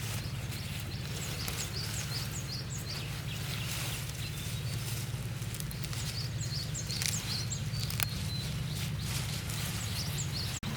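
Outdoor ambience: small birds chirping in quick runs of short high notes over a steady low rumble, with a few sharp clicks or knocks, the clearest about eight seconds in.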